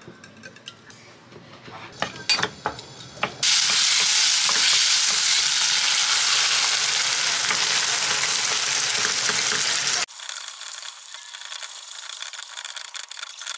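A few clinks of eggs being whisked in a glass bowl, then about three and a half seconds in a loud, steady sizzle starts: cherry tomatoes frying in hot oil in a pan, with beaten egg poured in and stirred. After about ten seconds the sizzle goes on thinner and quieter.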